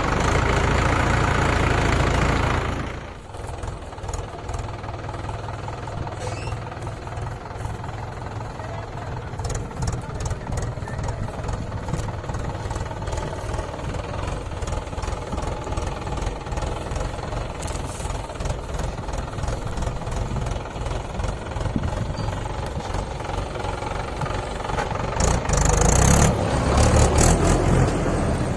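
Diesel tractor engine running. It is loud for the first few seconds, drops suddenly to a steady lower running sound, then grows louder again for a few seconds near the end.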